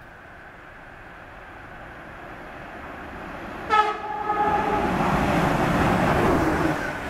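Siemens Vectron electric locomotive approaching with a passenger train, its noise slowly growing. Just over halfway through it gives one short horn blast, then it passes close by with loud rushing wheel-on-rail noise.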